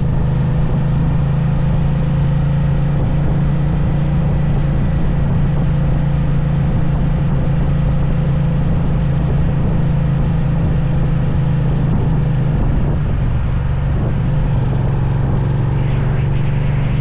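Suzuki SV650's 645 cc V-twin engine running at a steady cruise as the motorcycle is ridden along, heard close up from on the bike, with wind and road noise.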